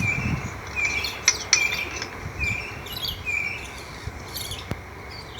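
Birds chirping: short high calls repeated roughly once a second, with higher chirps over them, thinning out near the end.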